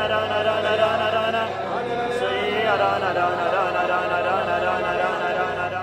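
Voices chanting slowly in prayer with long held notes, several pitches sounding together; some notes slide about two seconds in, and the sound fades near the end.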